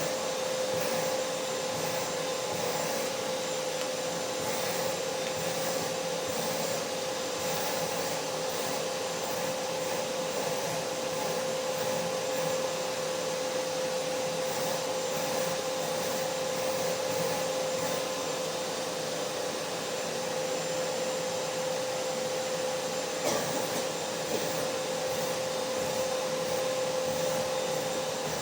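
Vacuum cleaner motor running steadily: a continuous rush of air noise with a steady whine.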